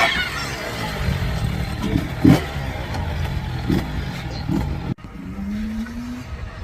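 Yamaha YZ65 two-stroke dirt bike engine running and revving as the bike is ridden, with a few sharp clattering knocks near the middle. After a brief break about five seconds in, its pitch rises steadily as it accelerates.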